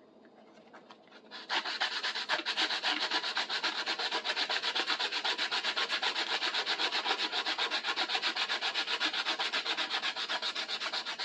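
Sandpaper rubbed by hand in fast back-and-forth strokes on a wooden handle, about five strokes a second. It starts about a second and a half in. The sanding takes down the high spots on the handle's taper so it will fit the tool's socket.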